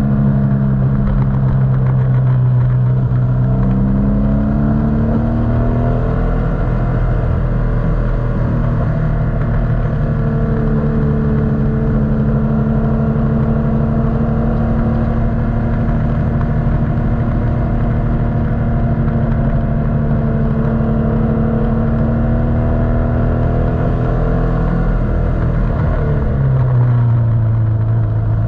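Motorcycle engine while riding. The engine pitch climbs about four seconds in as it speeds up, holds steady while cruising, then drops near the end as it slows.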